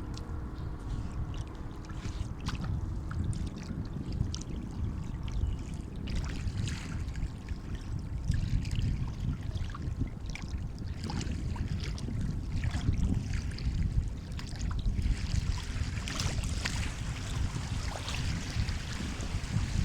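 Sea water washing and lapping, a steady low rumble with small splashes and fizzing that thicken as a wave comes in near the end.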